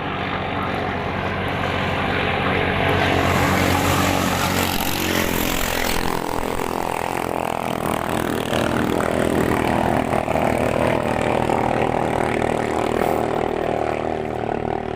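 Sogo engines (18 hp and 14 hp) of racing longtail ketinting boats running hard at speed. The steady engine drone grows louder over the first few seconds and then holds.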